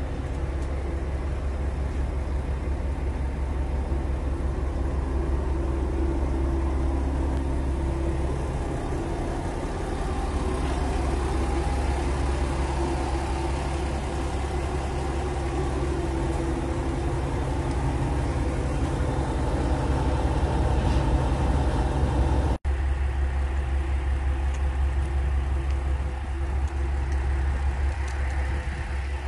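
Diesel railcar engine running steadily with a deep hum. It breaks off suddenly about three-quarters through and picks up again at once.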